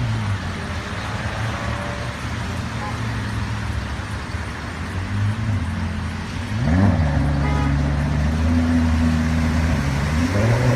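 Car engine running at low revs, then revving up sharply about six and a half seconds in and staying louder.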